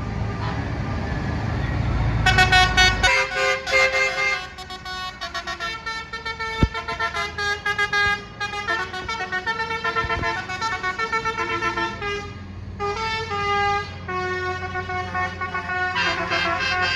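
Lorry horns tooting in a quick run of changing notes over the rumble of diesel engines. The engine rumble is loudest in the first three seconds.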